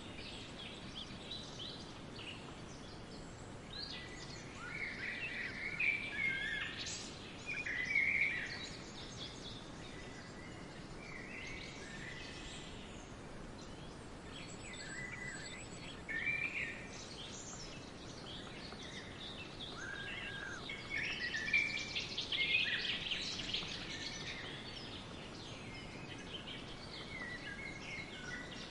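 Several wild birds singing and chirping, short overlapping phrases from different birds over a steady faint background hiss, busiest about a few seconds in and again past the middle.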